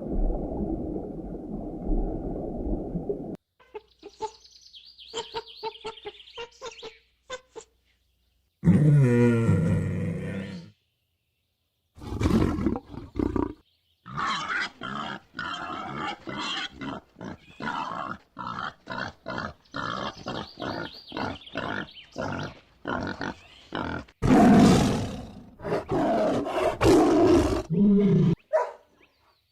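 A run of separate animal calls, one clip after another: a low steady rumble, faint quick chirps, a loud roar with falling pitch, a long stretch of rapid repeated calls, and another loud roar near the end.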